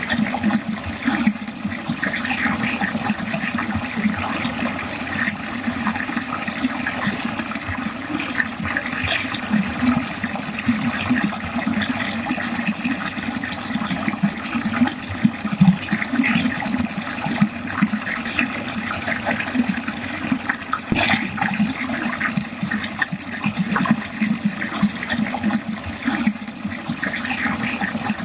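Water pouring and gurgling steadily down a drain, a continuous churning rush with a burbling low band.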